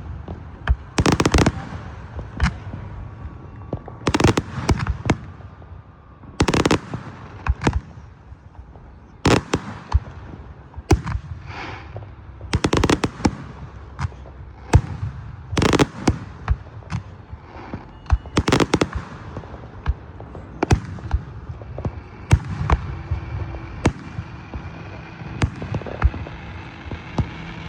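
Fireworks going off: a long series of sharp bangs at irregular intervals, several of them followed by about a second of crackling.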